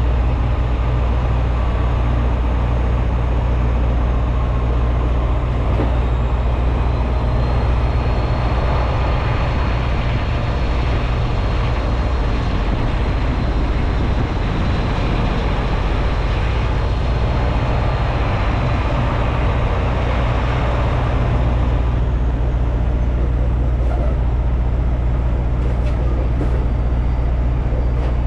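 Freightliner semi truck's diesel engine running steadily, with a faint high whine through the middle and a few light clicks near the end.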